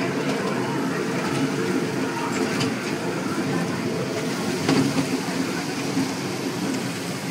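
Small amusement-park ride train running, a steady rumble with a few clicks and one sharper knock about five seconds in.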